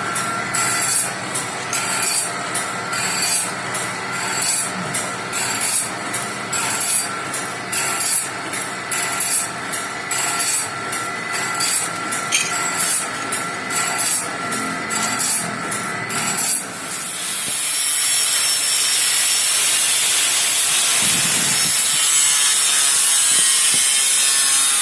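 Saw-shop machine working a new band-saw blade: a regular, repeated scraping stroke over a steady machine whine. About two-thirds of the way in the strokes stop and an even, steady hiss takes over.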